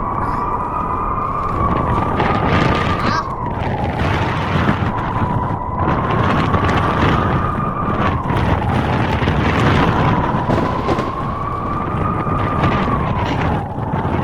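Blizzard wind howling: a loud rush of gusting wind with a whistling tone that rises and falls slowly, about every six seconds.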